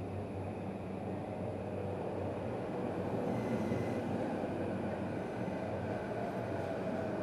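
Yamanote Line electric train arriving at the adjacent platform: a steady rumble of wheels and running gear that swells slightly. Faint thin whines come in around the middle and near the end as it slows.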